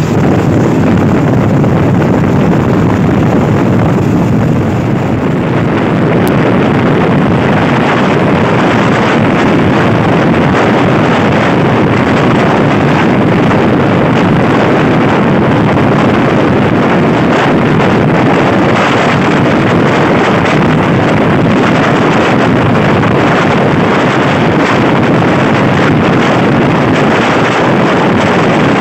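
Passenger train running at speed, heard from an open carriage window: a loud, steady rumble of the wheels on the rails mixed with wind buffeting the microphone.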